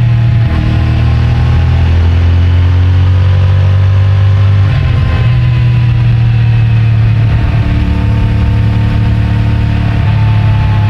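CFMOTO 450MT's parallel-twin engine running under way on its stock exhaust, the note breaking at gear changes about half a second in, near halfway and around three-quarters through, rising in pitch between them and easing off near the end. Heard muffled from a microphone in the rider's pocket.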